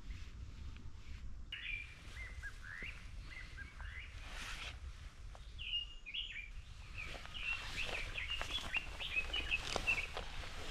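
Small birds chirping in quick short calls, sparse at first and busier in the second half, over a low rumble of wind on the microphone, with scattered clicks and rustles.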